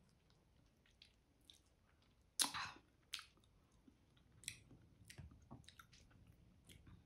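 Close-up chewing of a juicy orange segment: scattered wet mouth clicks and smacks, with a louder wet smack about two and a half seconds in.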